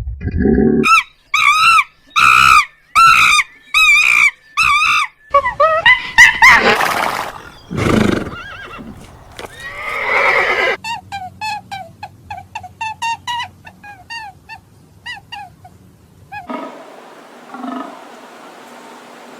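A string of different animal calls, one kind after another: a row of about six wavering calls, then louder sweeping calls, then a run of quick short chirps, then a fainter different call near the end.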